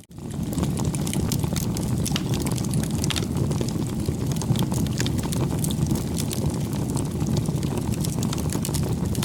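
Bonfire burning: a steady low rush of flame with frequent sharp crackles and pops from the burning wood. The sound drops out for an instant at the very start.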